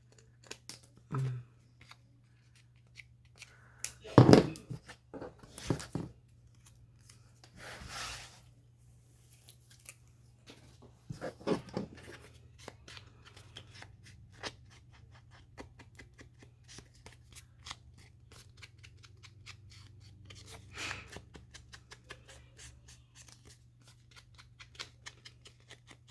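Scissors cutting a circle out of thick paper: a long run of small, quick snips and clicks as the blades work around the curve. There are a few louder knocks and short paper rustles as the sheet is handled.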